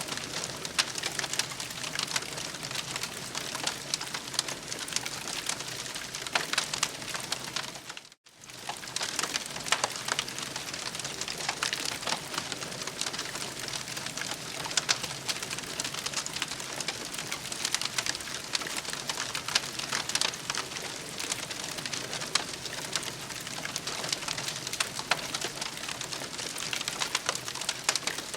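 Campfire crackling: a steady hiss dense with sharp pops. The sound drops out completely for an instant about eight seconds in.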